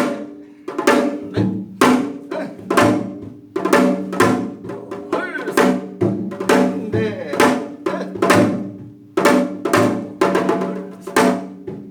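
Korean traditional percussion accompaniment for mask-dance practice: evenly paced sharp strikes about twice a second, each ringing out, over a steady low tone.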